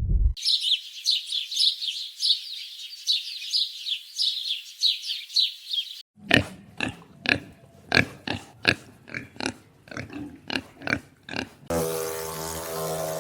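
Animal calls in separate cuts: first a rapid run of high peeping chirps, then a series of short grunting calls about two a second. Near the end a steady pitched drone takes over.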